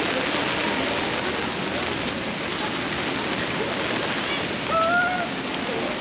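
Heavy rain falling steadily on an umbrella overhead and on the wet pavement. About five seconds in, a brief pitched sound rises slightly over the rain.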